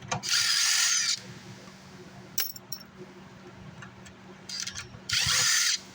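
A small handheld power tool runs in two short bursts, one near the start and one near the end, while the amplifier is being taken apart, with a few light clicks of parts between.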